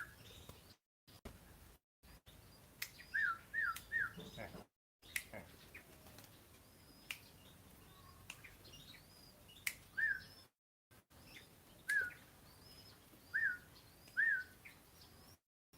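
Small birds chirping: short, sharp chirps, often in quick runs of two or three, with fainter higher twitters and a few sharp clicks. The sound cuts out briefly several times.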